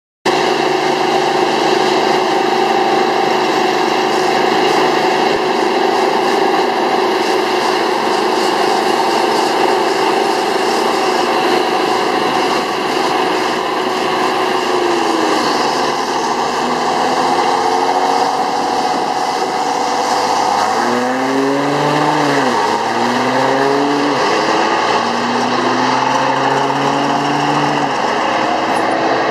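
Diesel truck engine running, then accelerating hard through the gears in the second half: its pitch climbs and drops back several times in a row.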